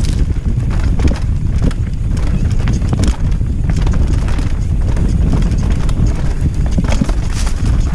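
Downhill mountain bike clattering over rough, rocky trail: quick irregular knocks and rattles from the wheels, chain and frame, over a steady low rumble of wind on the microphone.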